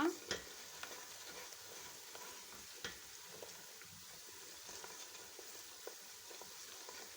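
Onions, whole spices and dried black lime frying in hot ghee in a pot: a low, steady sizzle, with a few light clicks.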